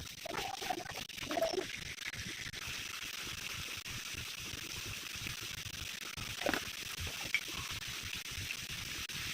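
Curry cooking in a pan: a steady sizzle, with a few soft wet sloshing sounds in the first second or so and another short one about six and a half seconds in.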